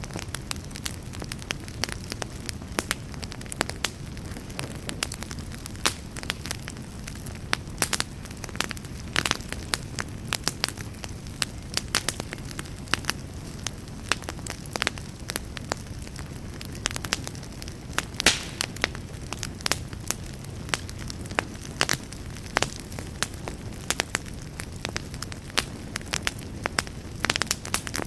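Wood campfire crackling, with irregular sharp pops and snaps, several a second, over a steady low rumble.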